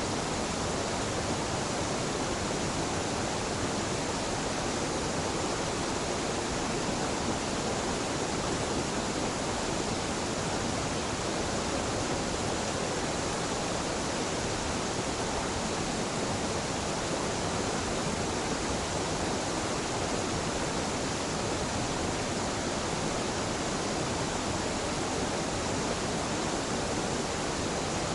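Mountain waterfall at a river confluence: water falling and rushing in a steady, unbroken noise with no change.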